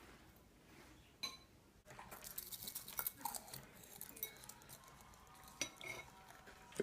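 Dishes and cutlery clinking and clattering: one clink about a second in, then a busy run of clatter for a couple of seconds, and a few more clinks near the end.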